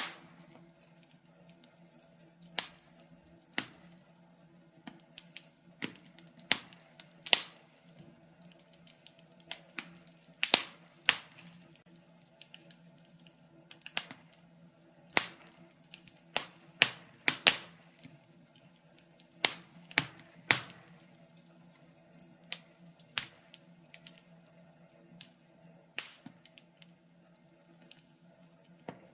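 Wood fire in a fireplace crackling: sharp, irregular pops and snaps, sometimes in quick clusters, over a faint steady low hum.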